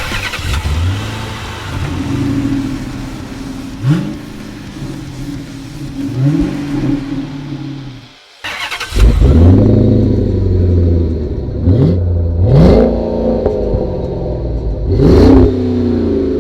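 Supercharged 5.7-litre Hemi V8 of a 2007 Dodge Magnum RT revved in short blips through its exhaust, each rev rising and falling in pitch. The sound drops out for a moment about eight seconds in and comes back louder, with several more revs.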